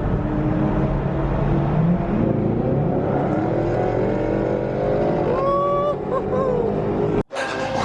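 Car engine running hard and accelerating, its pitch climbing, cut off suddenly near the end.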